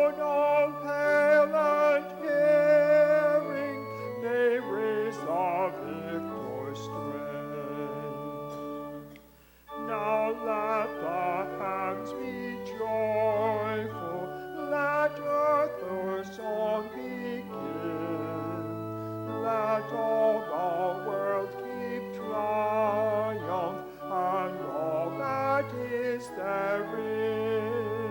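A congregation singing a hymn with keyboard accompaniment, held notes over a moving bass line. The music stops briefly about nine seconds in, at a break between verses, then starts again.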